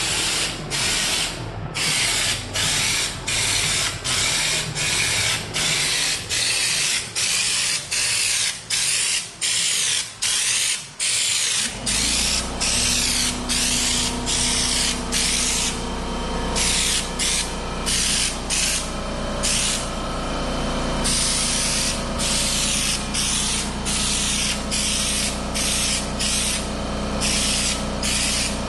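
Air-powered spray gun shooting Raptor Liner coating in short, quickly repeated bursts of hiss, about one and a half a second at first and longer passes later, each trigger pull laying down a stroke of coating. About twelve seconds in, a steady low motor hum starts under the spraying.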